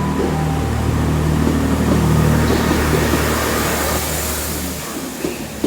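Class 166 Turbo diesel multiple unit running with a steady low engine drone, which drops away suddenly about five seconds in, leaving a fainter hiss.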